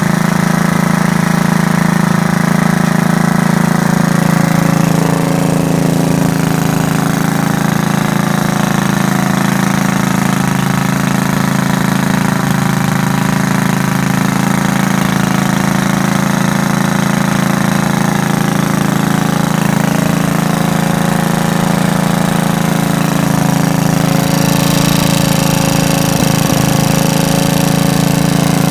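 Briggs & Stratton model NP single-cylinder engine running steadily, driving a 1945 Sears & Roebuck Farm Master generator.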